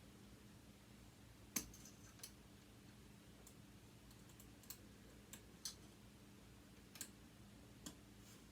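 Faint, scattered metal clicks and taps, about seven in all and the loudest about a second and a half in, as a thin tool is worked against sewing machine parts.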